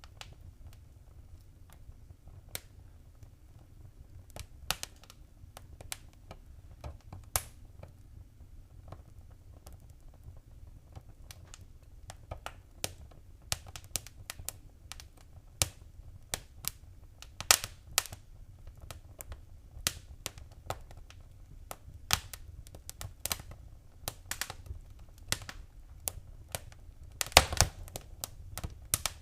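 Wood fire crackling in a fireplace: irregular sharp pops and snaps over a low steady rumble. The pops come more often as it goes on, with a loud cluster of cracks near the end.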